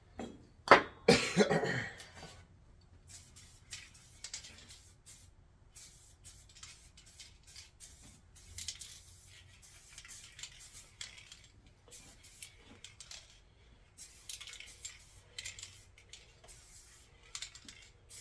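Short hissing bursts from an aerosol spray-paint can coating ball joints black, with light clinks between them. About a second in, a loud throat noise from the painter.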